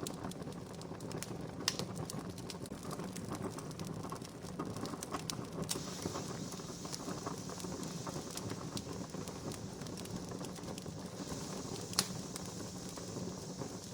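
Wood fire crackling, with a steady low rush of flame and many sharp pops, two louder ones a couple of seconds in and near the end.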